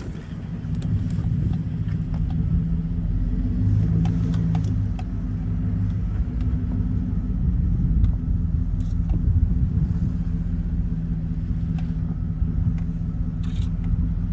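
Motor vehicle engine running steadily while driving, a low rumble with a few faint knocks and rattles.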